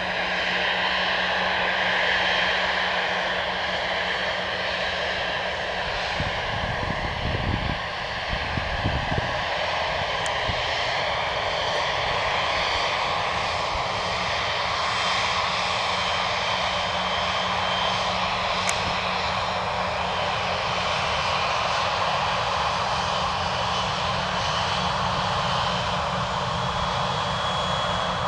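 Airbus A319 airliner's jet engines running, a steady rush of noise with a high whine over it. Some low rumbling comes in about six to nine seconds in.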